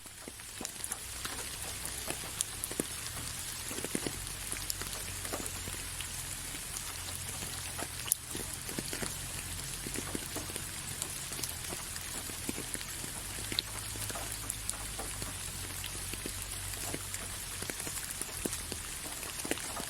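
Steady rain falling, an even hiss dotted with many individual drops striking a surface, over a low steady rumble.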